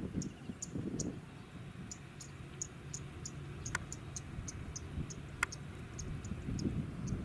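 Insect chirping, short high chirps about two or three a second, over a low rumble, with two sharper ticks about halfway through.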